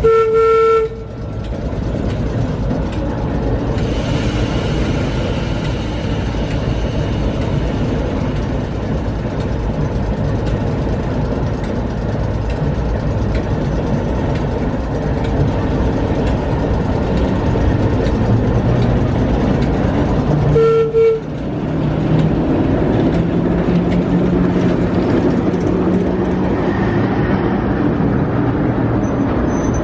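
A train running with a steady, continuous noise. A short whistle toot sounds right at the start and another about two-thirds of the way through.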